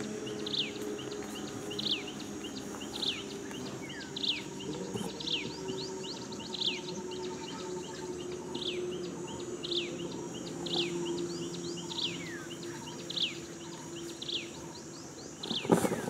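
Bird calling outdoors: a sharp falling chirp repeated about every three quarters of a second, with softer chirps between, over a steady high insect drone. A short knock near the end.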